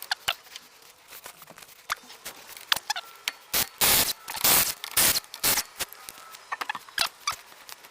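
Scattered clicks and taps with several short, loud bursts of scraping or rustling in the middle, the sound of hands and tools working around the car.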